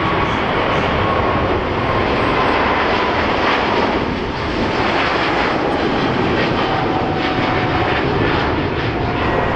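Jet airliner's engines running loudly and steadily, with a faint whine that slowly falls in pitch as the plane goes by.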